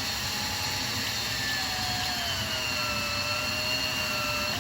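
Electric drill with a 4.5 mm bit running while it opens up the bore of an acrylic pen blank for the refill. Its steady whine sags a little in pitch about a second and a half in and winds down right at the end.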